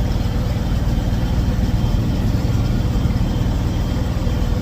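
Tractor engine running at a steady speed while pulling a mini round baler, a constant low drone with no change in pitch.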